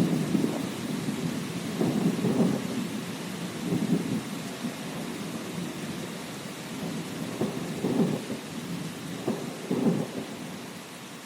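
Thunder rumbling in several low swells over steady rain, easing off toward the end.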